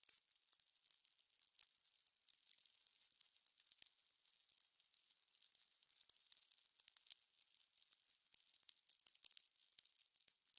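Fire crackling: a steady high hiss with many irregular sharp pops and snaps.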